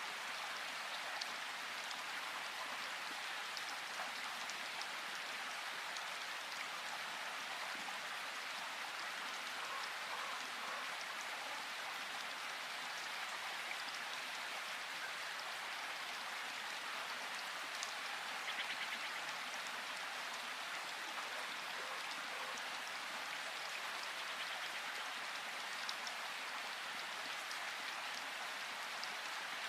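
Steady rain falling in a forest, a dense even patter with scattered individual drop ticks. About two-thirds of the way in there is a short burst of rapid ticking.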